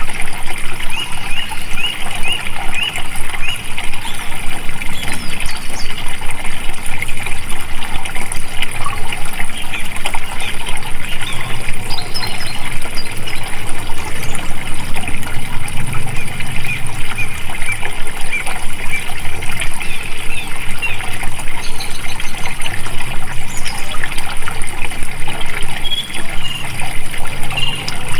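Flowing water running steadily, with birds chirping over it.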